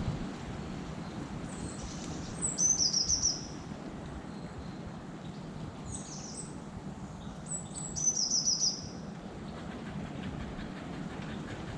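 A songbird sings two short, high phrases a few seconds apart, each opening with a few high notes and ending in a rapid trill. Under it runs a steady low rumble.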